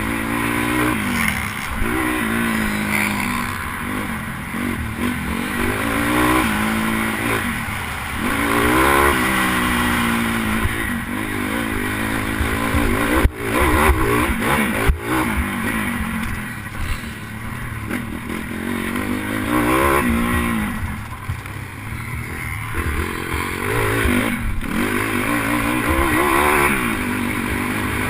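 Pit bike engine revving hard and backing off again and again as it is ridden around a supercross track. Two sharp knocks sound about halfway through, a second and a half apart.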